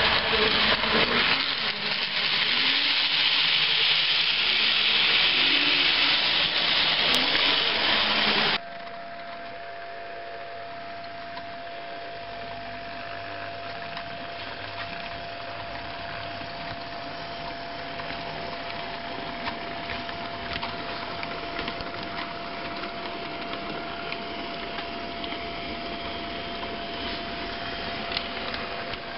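HO-scale model trains running on the layout: a loud hiss for the first third, then an abrupt change to a quieter steady motor whine with faint clicking from wheels on the track.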